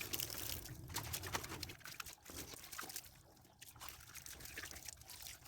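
Water pouring and trickling over soaped fridge liner sheets as they are rinsed, with small splashes and knocks; it is louder for the first couple of seconds, then quieter.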